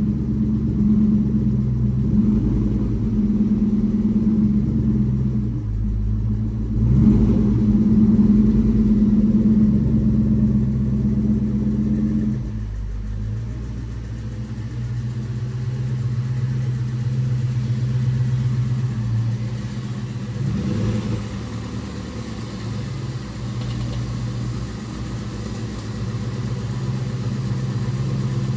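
1999 Ford Mustang GT's 4.6-litre V8 idling through Magnaflow mufflers after a cold start, a steady exhaust burble. About twelve seconds in the fast cold idle steps down to a lower, quieter idle.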